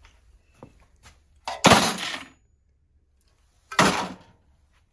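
Two loud crashes of scrap metal being dropped into a pile or bin, each a clatter with a short ringing tail, about two seconds apart, with a few light clinks between them.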